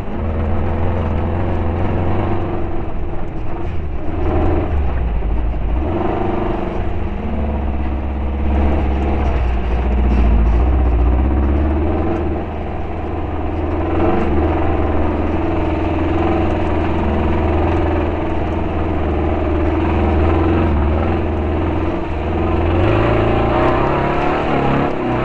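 Class 5-1600 race car's air-cooled VW flat-four engine running hard off-road, its note rising and falling with the throttle. The engine is misfiring, running on only three cylinders.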